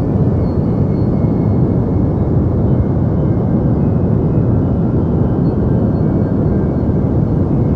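Deep white noise for sleep: a steady, unchanging hiss-like rumble weighted toward the low end, with little treble.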